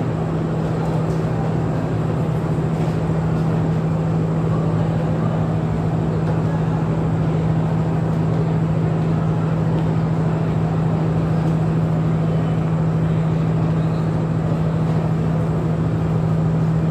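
Steady low drone of a train's diesel engine, a constant hum over an even rumble that does not change.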